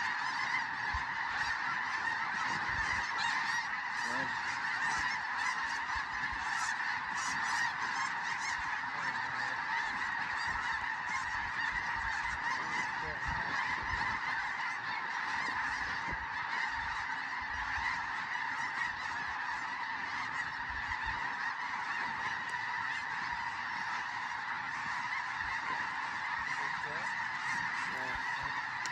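A large flock of snow geese calling all at once: a dense, unbroken chorus of high honks with no pauses.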